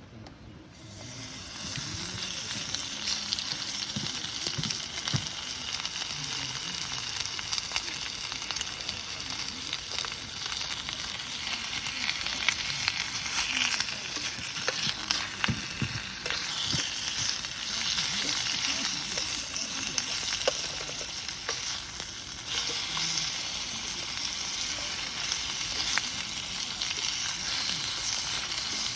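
Food sizzling and frying in a pan, a steady crackling hiss that starts about a second in, with sounds of stirring.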